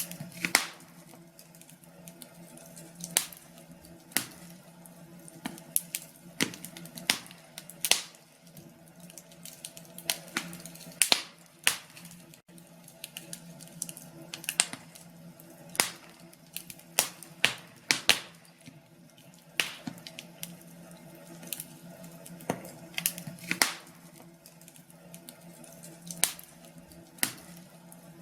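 Wood fire crackling in a fireplace: irregular sharp pops and snaps, sometimes several in quick succession, over a low steady hum.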